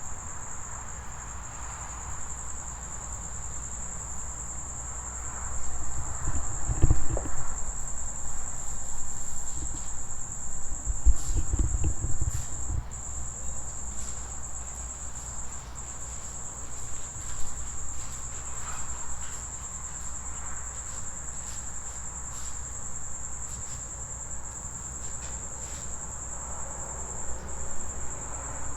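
Crickets trilling in a steady, high-pitched chorus, with low rumbling thumps on the microphone around seven and eleven seconds in.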